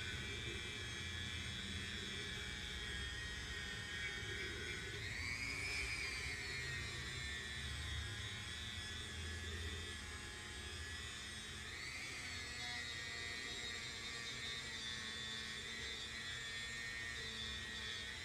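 High-speed rotary tool whining steadily as it sands an aluminium transmission case with a small abrasive bit. Its pitch swells twice, about five seconds in and again near twelve seconds.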